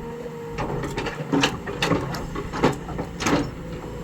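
Excavator working rock: sharp, irregular cracks and clanks, about five of them, over the steady drone of its engine.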